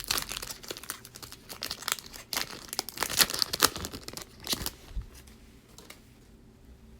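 Basketball trading cards being handled and flipped: a run of quick crinkling and rustling that dies down about five seconds in.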